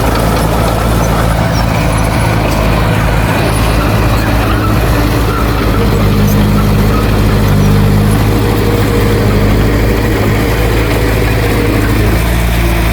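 Heavy diesel engine of earthmoving equipment running steadily. It grows louder for a couple of seconds around the middle.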